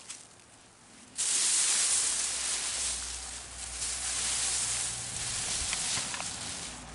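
Loose potting soil poured into a plastic bucket, a steady hiss that starts suddenly about a second in and keeps going.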